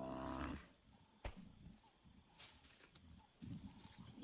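An African buffalo bull's low, drawn-out distress bellow cuts off about half a second in as lions hold it down. Faint scuffling follows, with one sharp knock a little over a second in.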